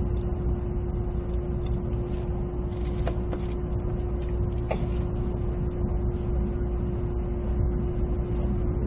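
Running noise inside an E657 series limited express train: a steady low rumble with a constant hum, and a few faint clicks about three and five seconds in.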